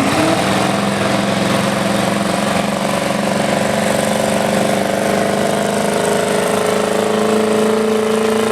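1979 Chevrolet 4x4 pickup's engine running hard at steady high revs as it pulls a weight-transfer sled, exhausting through a tall chrome stack. The engine note holds steady, then climbs slowly in pitch over the last few seconds as the truck gains ground speed.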